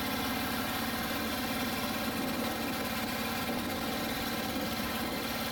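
Boat engine idling steadily, an even, unchanging drone with a rapid low pulse.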